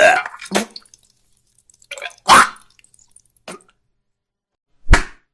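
A run of short, separate cartoon sound effects with silent gaps between them: small clicks, a brief noisy swish about two seconds in, and a short low thump near the end.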